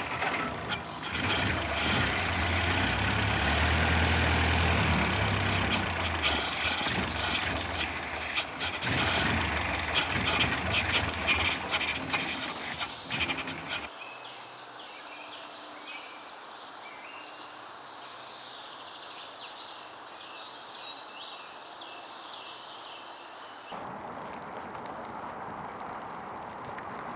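A truck engine runs with a steady low hum and scattered mechanical clicks, while small birds chirp over it. About halfway through, the engine sound cuts off and only the birdsong and a quiet outdoor background remain; near the end the background changes again.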